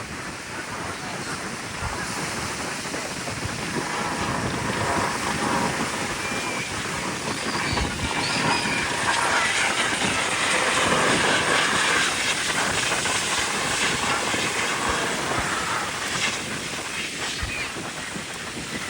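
An aircraft flying past, a rushing roar that builds slowly to its loudest about eleven seconds in and then fades.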